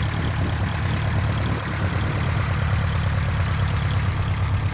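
An engine running steadily at a constant speed: a low, even hum with a hiss over it and no change in pitch.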